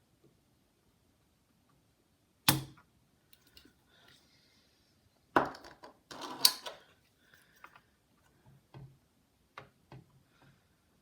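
Sharp clicks and snaps from a desoldering tool as solder is removed from the motherboard's capacitor joints. There are three loud clicks in the first two-thirds, with a brief hiss around two of them, then several lighter clicks near the end.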